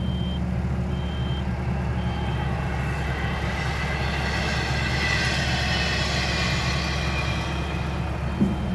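Kobelco excavator's diesel engine running steadily, with a higher whine swelling up and fading away in the middle and a short high beep about once a second. The engine holds its speed without bogging, its clogged fuel screen at the water separator now cleaned.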